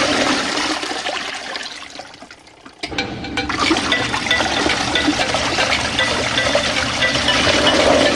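Small portable washing machine with water rushing and churning in its tub. The water noise dies down about two seconds in, a few clicks sound near the three-second mark, and the churning starts again with a faint low hum.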